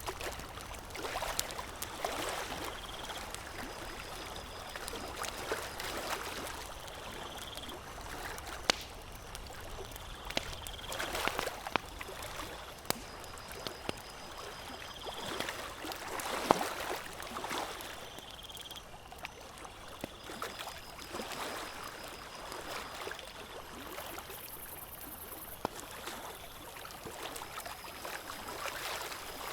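Campfire crackling, with irregular sharp pops now and then, over a steady watery wash.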